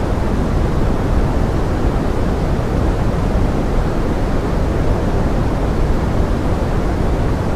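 Steady pink noise blended with forest rain: an even, unbroken hiss weighted toward the low end.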